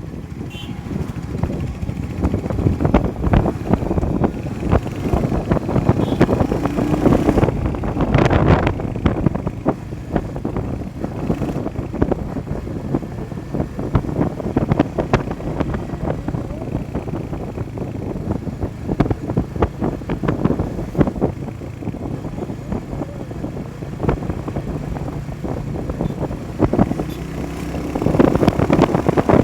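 Motorcycle riding on the road: a steady engine and road rumble, with wind buffeting the microphone in irregular crackles.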